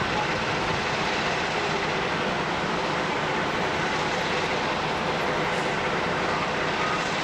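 Diesel-hydraulic locomotive running with a steady, even engine drone.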